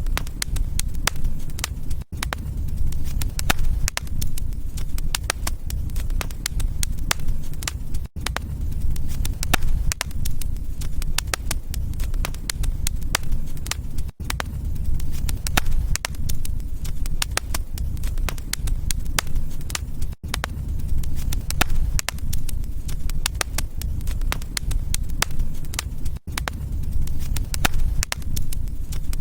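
Wood fire crackling: frequent sharp pops and snaps over a steady low rumble, with a brief gap in the sound about every six seconds.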